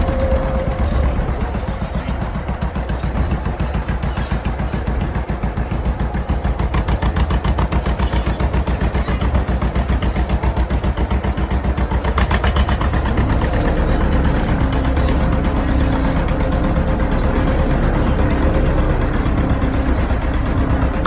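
Tractor engine running steadily while pulling a passenger trolley, with a fast, even pulse and a heavy low rumble; a steady hum joins about two-thirds of the way through.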